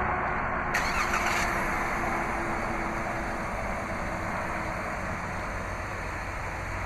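Jeep Wrangler's 3.6-litre Pentastar V6 starting by remote start: a short burst of cranking and catching about a second in, then the engine running at a steady idle.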